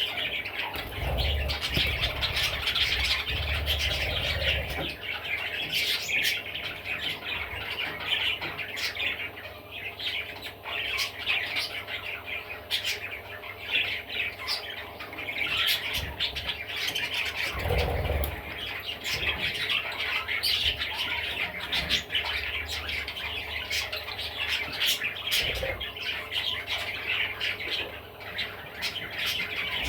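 Budgerigar chattering and warbling without pause, a busy stream of squawks, chirps and clicks. A few dull low bumps come near the start, in the middle and again later.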